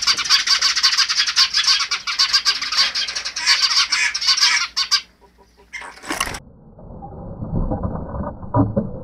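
Birds chattering rapidly and densely, stopping about five seconds in. After a short burst of noise, low muffled fluttering follows as common mynas take off from the nest box.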